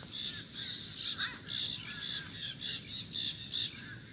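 Birds calling: a continuous run of short, harsh, high-pitched calls, several a second.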